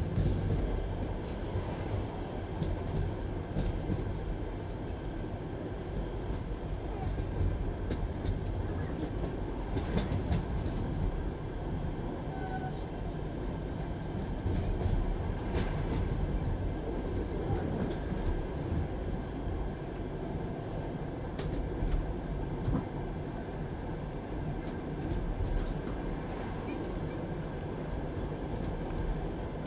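Passenger train coach rolling along the track: a steady rumble of wheels on rails, with scattered sharp knocks from the running gear at irregular intervals.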